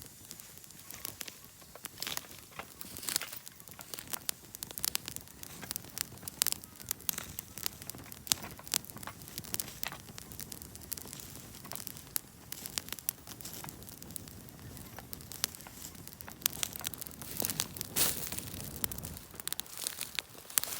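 A wood campfire crackling, with many sharp irregular pops and snaps, swelling louder for a couple of seconds near the end.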